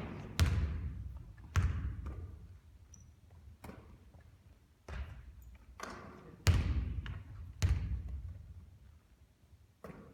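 Basketballs bouncing on a hard court: a series of single sharp thumps, irregularly a second or two apart, each with a short echo.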